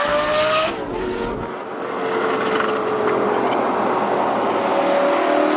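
Lamborghini Gallardo Superleggera's straight-piped V10 under acceleration. It revs up, and a gear change just under a second in drops the pitch. It then pulls steadily, and the pitch climbs again near the end.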